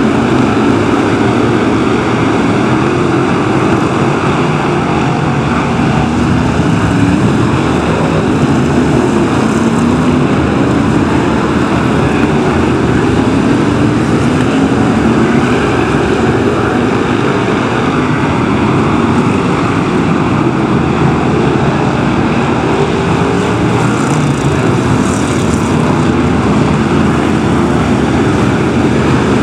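BriSCA F1 stock cars racing, several V8 engines running loud together, their pitch rising and falling again and again as the cars rev and ease off.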